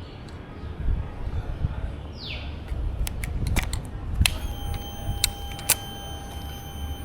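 Keys jangling and a few sharp clicks as a Royal Enfield Interceptor 650 is readied for a cold start, then a steady high-pitched whine for nearly three seconds, typical of the fuel pump priming once the ignition is on. A bird gives one falling chirp about two seconds in.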